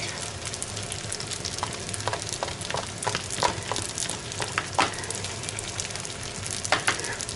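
Lagman frying and sizzling in a kazan as mushrooms are added and stirred in, with scattered knocks and scrapes of the stirring utensil against the pot.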